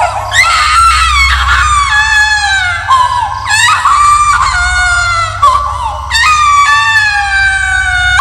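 Crying baby sound effect: about four long, high wailing cries, each falling in pitch, over a steady low drone.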